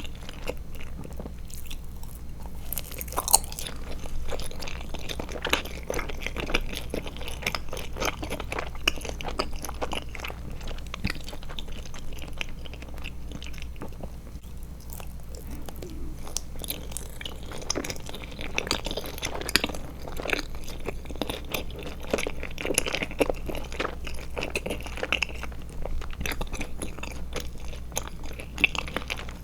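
Close-miked chewing of Trolli Glotzer eyeball gummies: continuous irregular wet clicks and smacks of the mouth working the candy, with one sharper click about three seconds in.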